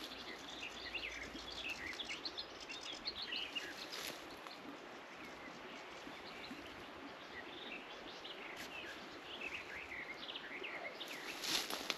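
Woodland birds chirping and singing in short, repeated phrases over a background hiss, with a couple of brief rustles.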